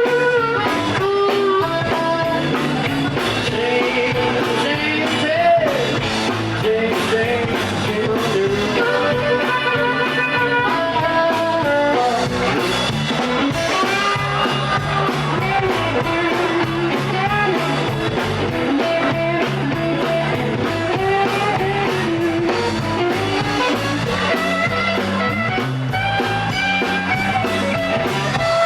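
Live electric blues band playing an instrumental break between verses: a bending lead melody over electric guitar, bass and drums.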